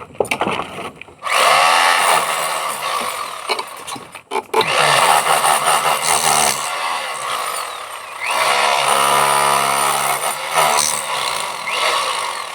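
Electric hammer drill running in long, loud bursts. It starts about a second in, stops briefly about four seconds in, then runs on, its motor pitch rising and falling under load.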